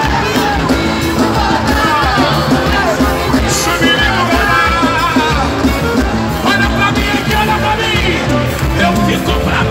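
Live Pentecostal worship music: a band playing loudly while voices sing over it.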